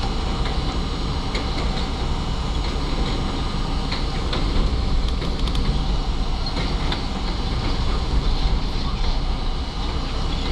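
R32 subway train running along the track: a steady rumble of wheels on rail, with scattered short clicks and knocks from the wheels passing over rail joints.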